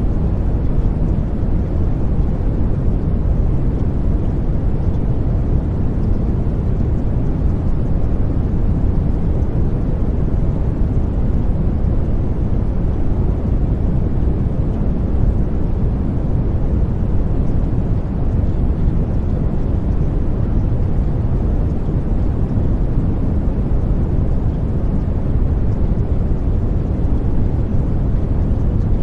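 Steady, loud low rumbling noise without breaks or changes, the masking sound bed of a subliminal audio track.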